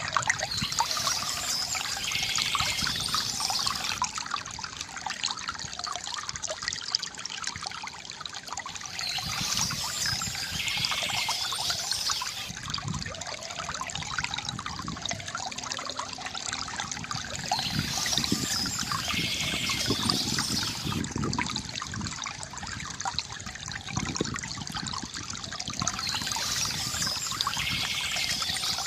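Small stream trickling and splashing steadily, with a brighter stretch that recurs about every eight to nine seconds.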